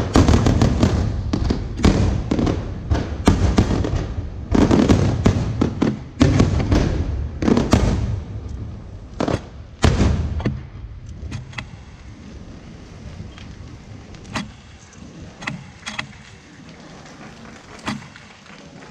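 Fireworks display: a dense run of bangs and bursts for about the first ten seconds, thinning out to scattered pops and a few sharp cracks.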